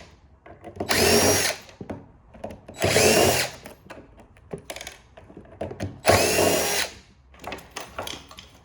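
Power drill-driver backing out screws from a printer's frame in three short bursts, about a second each, the motor whine rising and falling with each trigger pull. Light clicks of handling between them.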